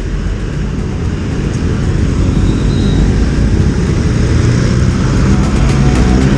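Motorcycle under way, its engine running under a heavy, steady rumble of wind and road noise on the microphone, growing slightly louder.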